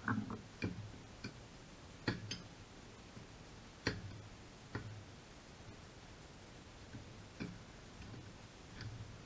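Irregular sharp clicks and light knocks of tools and metal parts being handled, about a dozen spread unevenly, the loudest near the start and around two and four seconds in.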